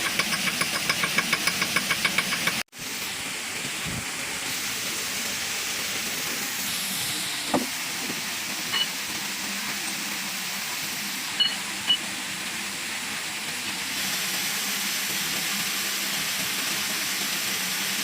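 Traditional Nepali water mill (ghatta) running: a rapid, even clatter of about eight clacks a second, then, after a cut about three seconds in, a steady rushing of water with a few faint clicks.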